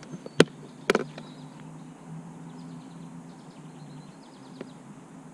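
Two sharp knocks about half a second apart near the start, over a steady low hum and faint, repeated high chirping.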